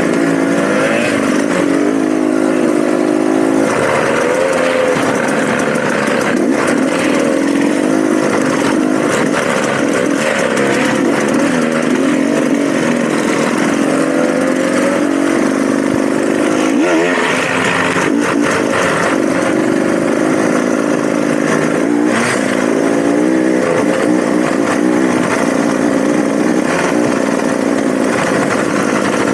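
Dirt bike engine running under riding load, its pitch rising and falling continually as the throttle opens and closes.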